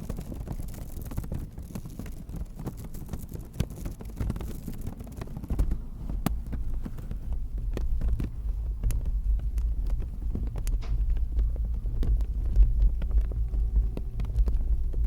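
Close-miked ASMR handling sounds: a low rubbing rumble full of small clicks and crackles, growing louder and heavier about five seconds in.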